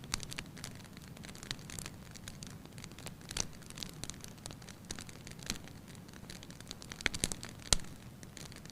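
Wood fire crackling in a fireplace: irregular sharp pops and snaps over a low steady rumble, with the loudest pop near the end.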